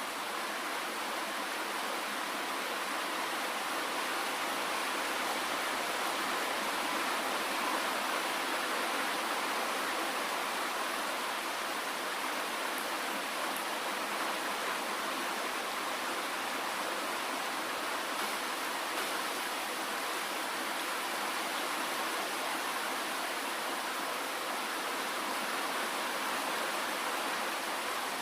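Steady rain falling, an even hiss with no distinct drops or changes in level.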